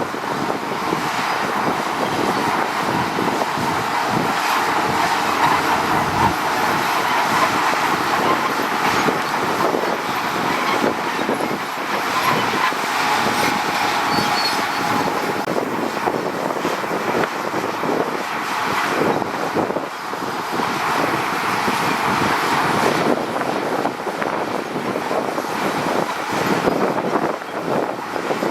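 Heavy earthmoving machinery at work: diesel engines running under a continuous metallic clatter with frequent knocks, the sound of a crawler bulldozer's tracks and blade working stone.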